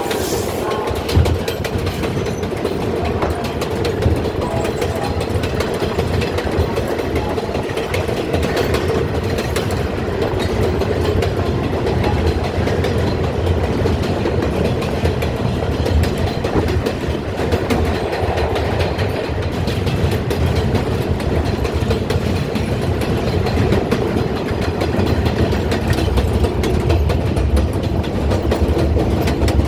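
R142A subway train running along the track: a steady rumble and hum with wheels clicking and clacking over the rails.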